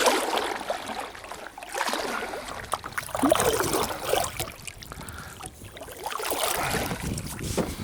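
Water splashing and trickling around a kayak, uneven, with a few sharp knocks.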